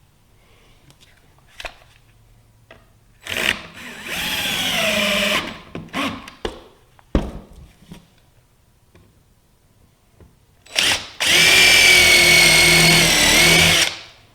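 Power drill running in two bursts of about two and three seconds, its motor pitch sagging as it bites under load, with a few sharp knocks of handling in between.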